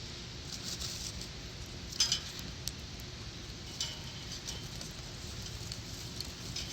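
Wood fire crackling in a small fire pit: scattered sharp pops and snaps over a steady hiss, the loudest cluster about two seconds in.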